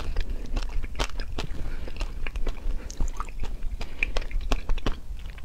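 Close-up chewing and wet mouth clicks, irregular and several a second, from someone working a miracle fruit berry around in their mouth.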